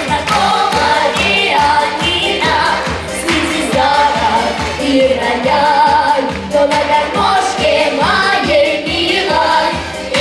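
A song: a melody sung with vibrato over a full pop-style instrumental backing.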